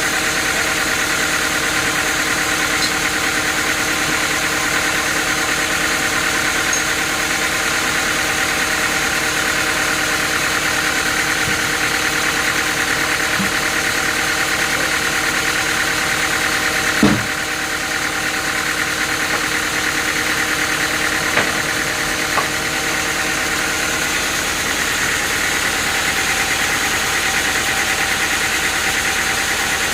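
Machinery running steadily, with several steady tones, and a single sharp knock about 17 seconds in.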